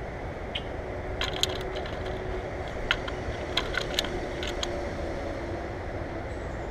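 Birds at a feeder, their beaks and claws making a series of irregular sharp clicks and taps, bunched between about one and five seconds in, over a steady low rumble.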